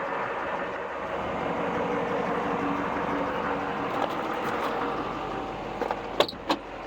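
LBZ Duramax 6.6-litre V8 turbo-diesel idling steadily, with two sharp clicks close together near the end.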